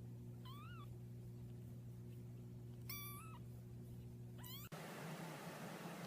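A domestic cat meowing three times, short high meows spaced a couple of seconds apart, the second one held longest, over a steady low hum. Shortly before the end the hum cuts off and a steady hiss takes its place.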